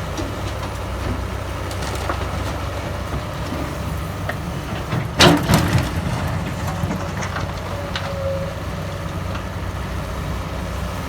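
Hydraulic excavator's diesel engine running steadily, with a loud crunching clatter about five seconds in as the bucket works the laterite soil.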